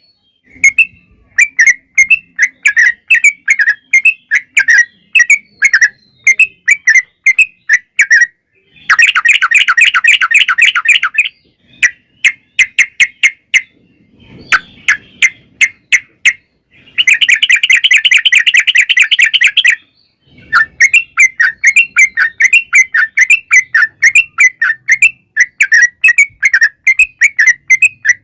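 Yellow-vented bulbul (trucukan) singing: rapid chattering series of bright notes, broken about 9 and 17 seconds in by long, dense rolling trills (the 'ropel panjang' style).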